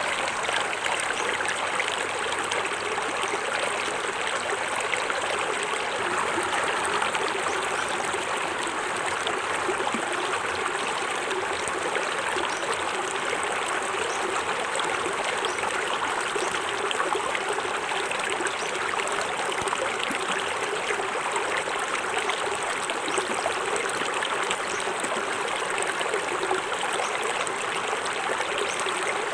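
Small forest waterfall: water falling and splashing steadily into a stream, with a fine trickling texture.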